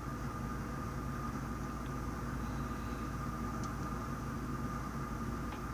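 Steady low hum and hiss with a thin, faint high whine held on one pitch, and a few faint ticks.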